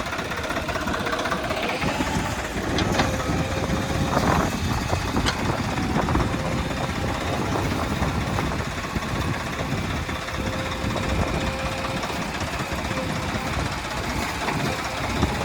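Heavy diesel engines of a tractor and a backhoe loader running steadily, with a couple of short sharp clicks about three and five seconds in.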